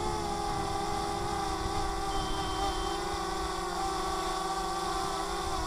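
DJI Mavic Mini's propellers whining steadily as the drone hovers, with wind rumbling on the microphone. A faint high beep sounds about two seconds in.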